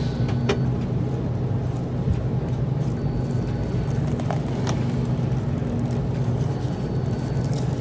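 Steady low mechanical hum with a few faint clicks and knocks.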